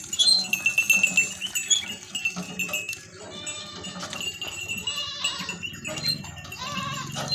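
Goats bleating, with a run of short high-pitched ticks during the first three seconds.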